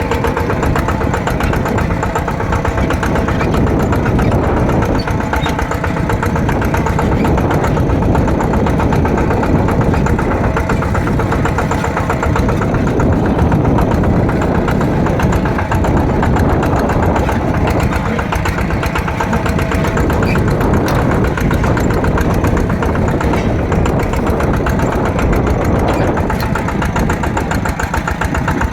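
Yanmar TF120 DI single-cylinder diesel engine on a mini tractor, running steadily with a rapid, even beat of firing strokes.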